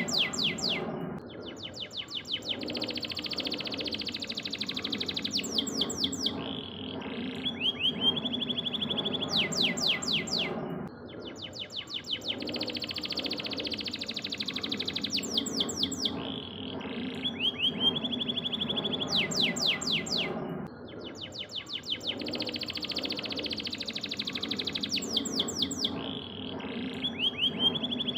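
Domestic canary singing a long song of rapid trills, fast sweeping notes and a held whistle. The same song passage repeats about every ten seconds, as in a looped master recording for training other songbirds.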